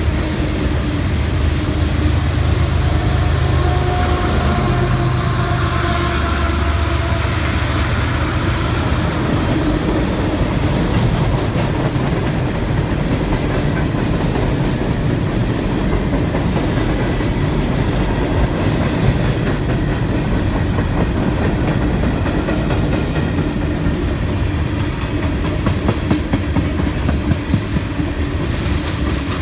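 Freight train rolling past, its wheels rumbling and clattering steadily on the rails, with a heavier low rumble in the first several seconds and sharper clicks of wheels over rail joints near the end.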